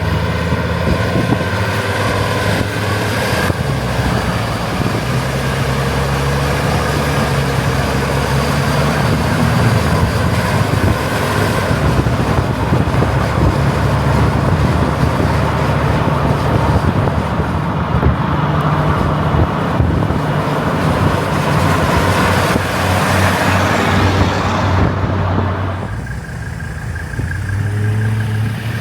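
Mercedes-Benz W123 wagon's five-cylinder turbo diesel engine running while the car is driven, over a steady hiss of road and wind noise. The engine note shifts pitch every few seconds as speed and gears change, and the sound drops off briefly near the end.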